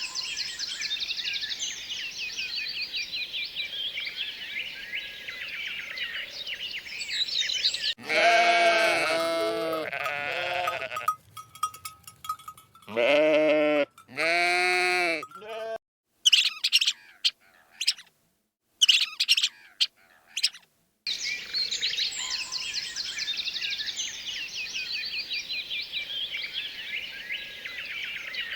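Dense, high chirping of small birds, broken in the middle by several loud, wavering bleats of a goat or sheep and then a few sharp clicks, before the chirping resumes.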